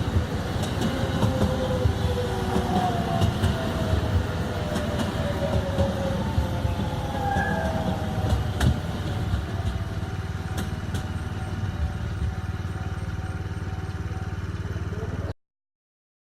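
Train running on the track: a steady low rumble with faint, slowly falling whining tones and a few clicks. The sound cuts off abruptly about 15 seconds in.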